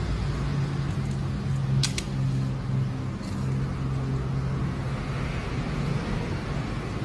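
Steady low mechanical hum of a running motor, with two sharp clicks close together about two seconds in and a fainter click a second later.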